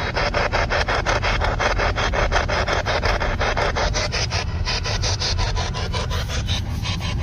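Spirit box sweeping through radio stations: static chopped into rapid even pulses, about six a second, over a low steady rumble of the car.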